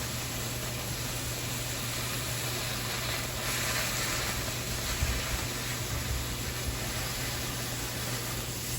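Oxy-fuel cutting torch cutting 1/4 inch steel plate, a steady hiss over a low hum, with a short pop about five seconds in.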